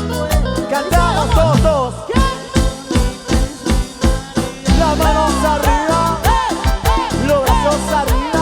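Live cumbia band playing: a steady drum beat under bass, with bending melodic lines over it from vocals or lead instrument.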